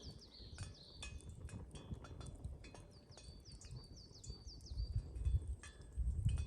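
A bird calls in quick runs of short, high chirps, over scattered sharp crackles from a wood campfire. A low rumble comes in near the end.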